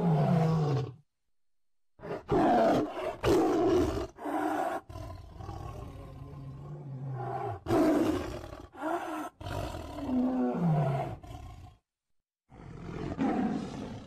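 Siberian tiger roaring in a series of rough calls, a few of them falling in pitch. It breaks off briefly about a second in and again near the end before one last roar.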